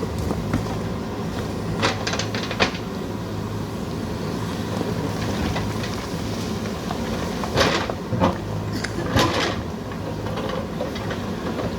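JCB 3DX backhoe loader's diesel engine running steadily under work, with a few sharp clanks and scrapes of the bucket and arm on soil and rock, a cluster about two seconds in and louder ones around eight to nine seconds in.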